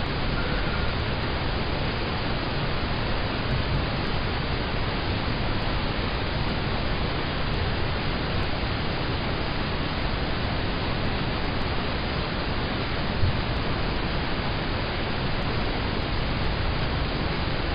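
Steady, even rain on a car's roof and windows heard from inside the cabin, with one brief louder knock about two-thirds of the way through.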